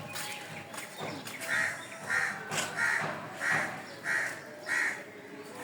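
A crow cawing six times in an even series, about one caw every two-thirds of a second.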